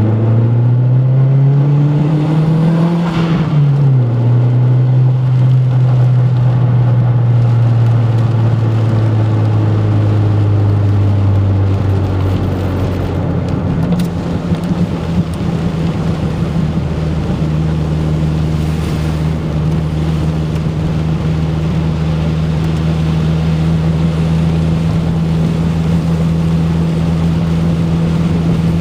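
Turbocharged Ford Focus four-cylinder engine running under throttle: the revs dip and climb over the first few seconds, settle to a steady drone, then step up to a higher steady pitch a little before halfway. The owner says the engine still misses under boost after a new coil pack and suspects the plug wires or the cylinder 2 fuel injector.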